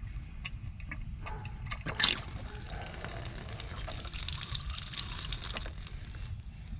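Water rushing from a faucet that has just been opened, starting with a sharp knock about two seconds in and running for several seconds before thinning out. The water is turned back on to test a freshly soldered copper pipe repair.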